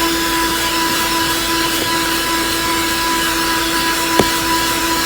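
Small handheld car vacuum cleaner running steadily with a constant motor whine, and a single brief click about four seconds in.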